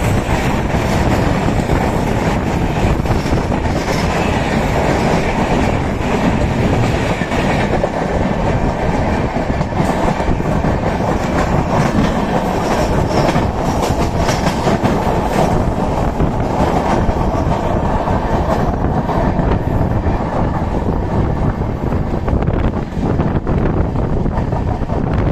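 Indian Railways passenger train running at speed, heard from the open barred window of the coach: a steady rumble with wheels clattering over the rails. At first another train on the adjacent track runs close alongside.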